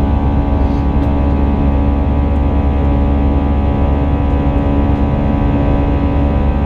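Airbus A319 jet engines and airflow heard from inside the passenger cabin: a steady, unchanging drone with a deep hum and layered tones.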